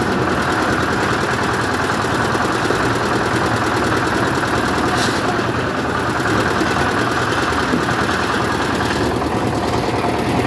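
An engine running steadily at idle, a constant machine drone with no changes in speed.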